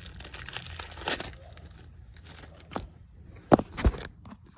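Handling noise from the recording phone being set down and moved: rustling, then a few sharp knocks and clicks, the loudest two close together near the end.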